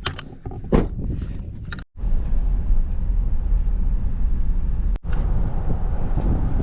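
A few light clicks, then after an abrupt cut the steady low rumble of a car driving, road and wind noise.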